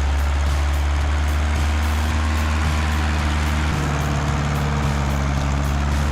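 Heavy tractor engine running steadily with a deep hum, its low pitch shifting slightly about four seconds in.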